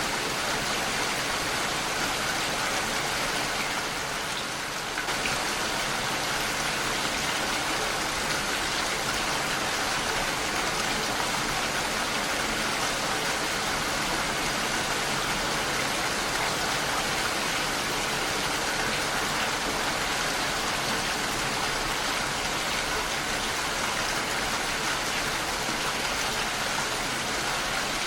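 Heavy rain falling steadily against a window, a dense even hiss, with a brief slight dip in loudness about four seconds in.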